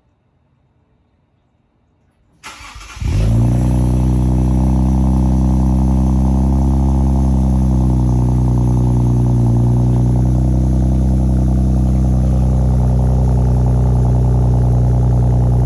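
Infiniti Q50 Red Sport 400's twin-turbo 3.0-litre V6 cold start on an AMS tune, breathing through catted front downpipes, a resonated X-pipe and 10-inch sport mufflers. The starter cranks briefly about two and a half seconds in, the engine catches, and it settles into a loud, steady cold idle.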